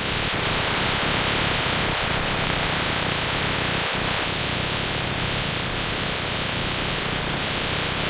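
Steady, even hiss like static, with no distinct events.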